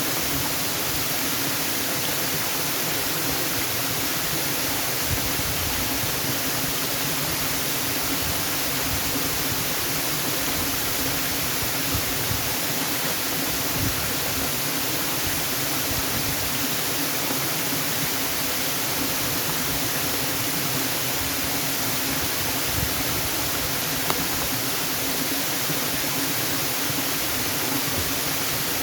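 Waterfall: falling water making a steady, unbroken rush spread evenly from low to high pitches.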